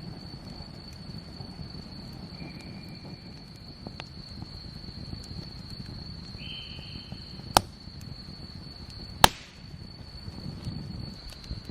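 Crickets trilling steadily, with two shorter insect notes joining in. Twice, about a second and a half apart, a loud sharp pop from a wood campfire.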